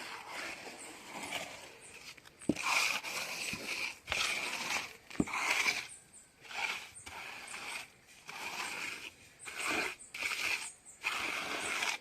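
Repeated scraping strokes of a mason's trowel working mortar, each stroke under a second, with two sharp knocks a few seconds apart.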